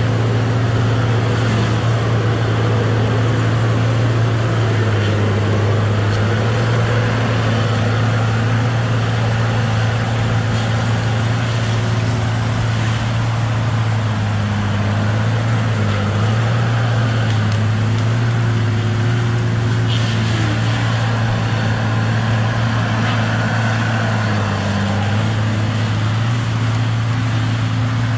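Heavy diesel engine of a logging machine running steadily, dipping briefly in pitch a couple of times as it takes load.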